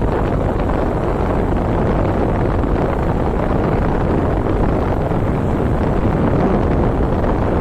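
Steady wind rush on the microphone of a motorcycle on the move, with the bike's running engine mixed in underneath.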